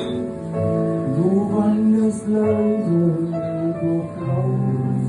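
Acoustic guitar music, with held melody notes that slide between pitches over a low sustained bass note.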